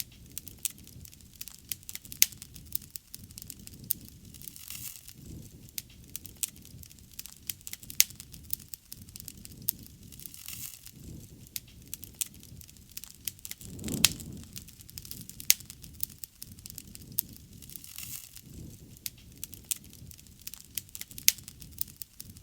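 Wood fire crackling with many sharp pops, over a low rush that swells and fades every few seconds and is loudest about fourteen seconds in.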